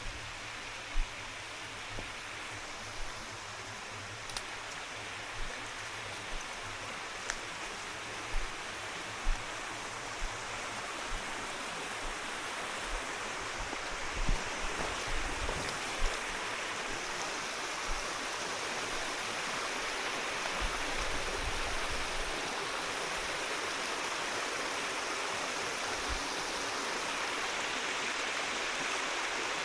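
Steady rushing of a forest stream, growing louder, with walking footsteps thudding about once a second that fade out about halfway through.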